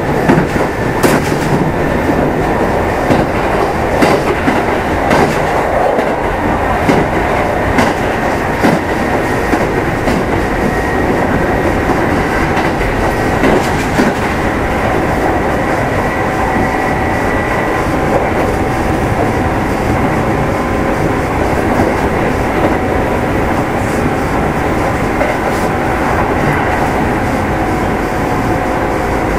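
Running noise inside the motor car of a Kintetsu 2610 series electric train at speed: a steady loud rumble of wheels and running gear. Over the first several seconds the wheels clack over rail joints about once a second, and after that the ride runs smoother.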